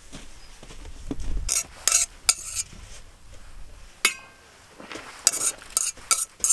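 Hard objects clinking and clattering against each other: a few sharp knocks, then a quicker run of them near the end.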